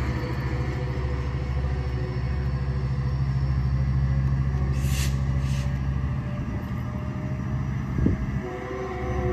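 Diesel locomotive engine running under power as it pushes a departing commuter train away, a steady low drone that slowly fades. Two short hisses come about five seconds in.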